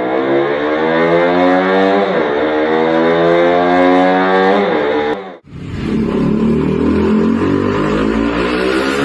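KTM Duke motorcycle engine and exhaust under acceleration, its pitch climbing, dipping briefly about two seconds in at a gear change, climbing again, then easing off. After an abrupt cut about five seconds in comes a rougher, choppier engine sound.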